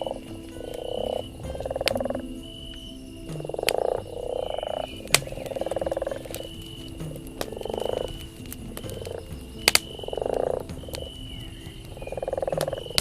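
Frogs croaking in a repeating chorus, a rasping call every second or two, over a crackling wood fire that gives sharp pops, the loudest about five seconds and nearly ten seconds in.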